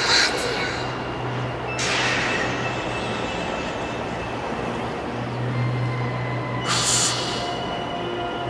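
Sound-design drone for a film: a steady, noisy rumble with a low hum and a few faint held tones underneath. Three brief whooshes rise out of it, at the start, about two seconds in and near seven seconds.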